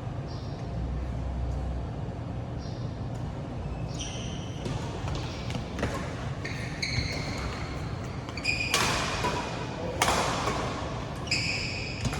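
A badminton rally: rubber-soled court shoes squeak sharply on the hall floor several times, and rackets hit the shuttlecock with two loud smacks in the second half.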